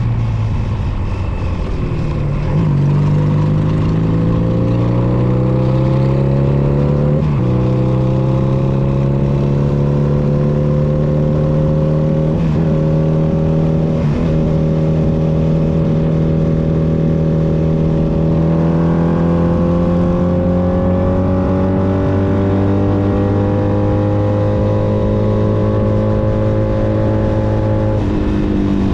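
Honda Nighthawk 250's air-cooled parallel-twin engine running under way. The pitch drops in the first couple of seconds, climbs, then dips sharply about seven seconds in before rising again. It holds a steady note that rises slowly in the second half and falls near the end.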